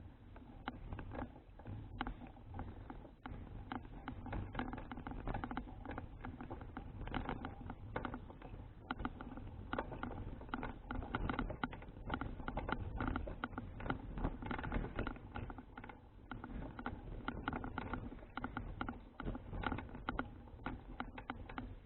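A Citi Cruiser CFH700 folding bicycle being ridden: a continuous run of quick rattles and ticks over a steady low rumble of wind and road.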